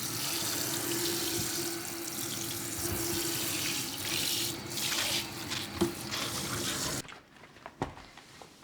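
Water running from a tap into a sink, a steady rush with a faint steady tone beneath it, shut off abruptly about seven seconds in. A couple of light clicks follow.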